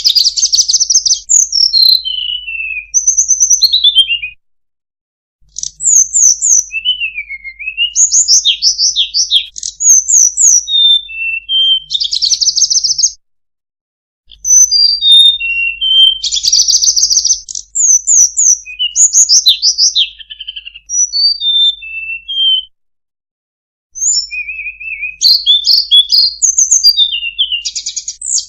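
Sulingan (tledekan) birdsong played as a lure call: rapid high whistles, slurred up-and-down notes and buzzy trills in long phrases, broken three times by a second or so of dead silence.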